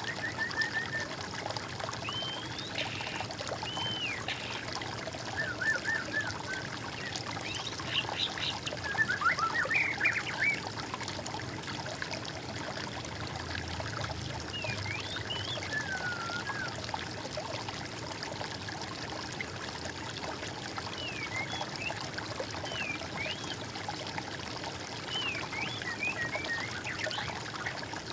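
Steady trickling water with birds calling over it: short whistled notes that rise and fall, and quick trills, coming on and off, loudest about eight to ten seconds in.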